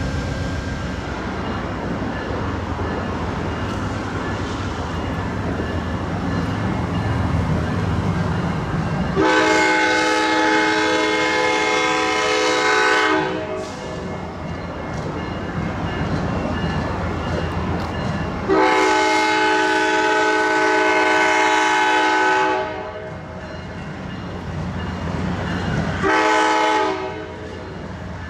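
Amtrak P42DC diesel locomotive running with a steady low rumble, then sounding its multi-chime horn: two long blasts of about four seconds each and a short one near the end. This is the long-long-short opening of the grade-crossing warning.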